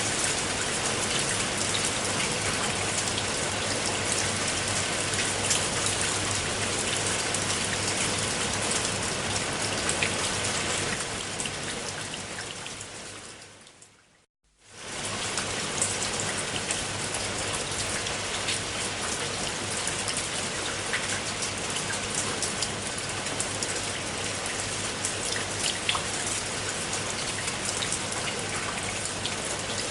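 Steady rain with many small drop ticks. It fades out from about eleven seconds in to a brief moment of near silence a little past fourteen seconds, then returns quickly at full level, as at the seam of a looped recording.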